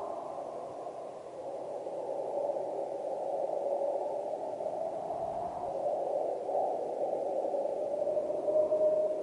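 Steady rushing noise centred in the middle range, with a faint held tone that comes up near the end.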